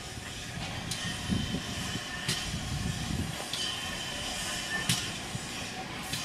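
Railway carriages rolling slowly along the track. The wheels knock over rail joints about every second and a quarter, with a high wheel squeal trailing after some of the knocks.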